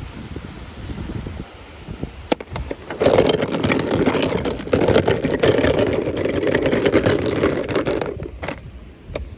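Toy packaging being handled and opened: a loud rustling, scraping noise from about three seconds in until about eight seconds, with a few sharp clicks before and after.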